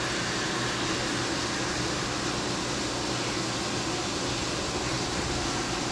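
Steady machine hum and whir, with a low, even tone throughout, from a Robodrill CNC mill running.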